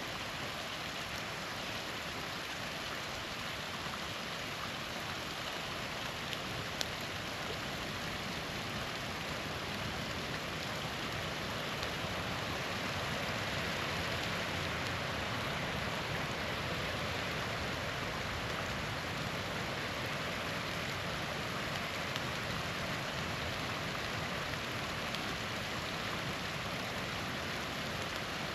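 Small waterfall rushing steadily, with a few faint pops from a campfire, one sharper crack about seven seconds in.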